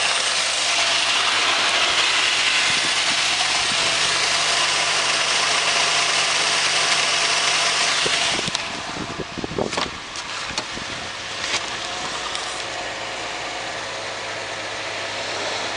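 Subaru EZ30 3.0-litre flat-six boxer engine idling steadily. About eight seconds in it becomes quieter, and a few short knocks and clicks follow.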